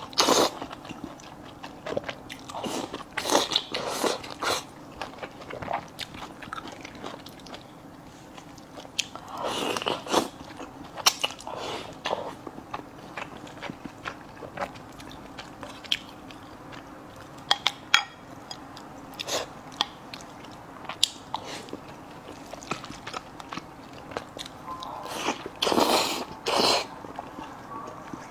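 Close-miked eating: chewing and biting with many short wet mouth clicks, and a couple of longer, louder stretches about ten seconds in and near the end.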